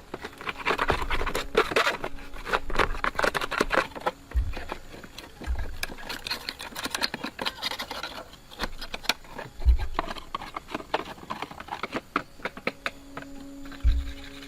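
Hand work on metal parts: a busy run of clicks and scraping with a few dull knocks.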